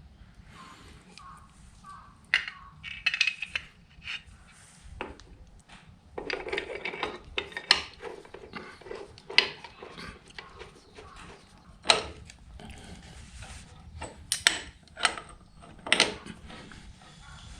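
Irregular metallic clinks and knocks, as of metal parts and tools being picked up, set down and handled on a hard surface.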